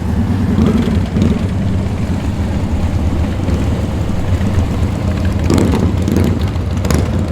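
Motorcycle engines running at low revs, a steady deep sound, with a few short sharp sounds about five and a half to seven seconds in.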